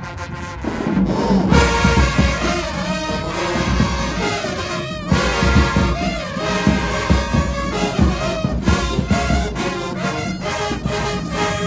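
Marching band playing in a parade, brass (trombones and trumpets) over drums, getting louder about a second and a half in.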